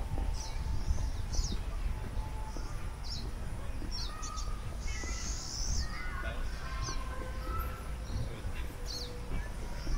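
Birds chirping: short, high chirps about once a second, over a steady low rumble of outdoor background noise.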